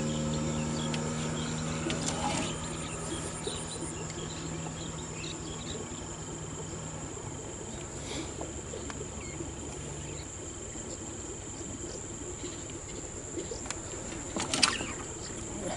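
Insects keeping up a steady, high-pitched drone. A faint low hum is also heard in the first few seconds and fades out.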